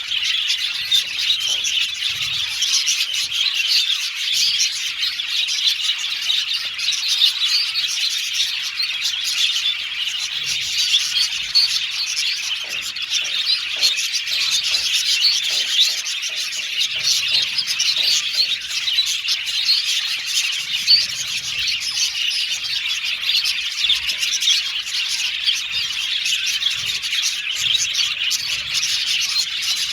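A colony of budgerigars chattering and chirping together in an aviary, a dense, continuous warble of many overlapping high chirps.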